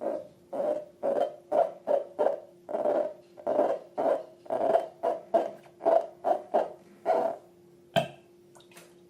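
Slime being squeezed and kneaded by hand: a quick run of wet squelches, about two to three a second, then a single sharp click near the end.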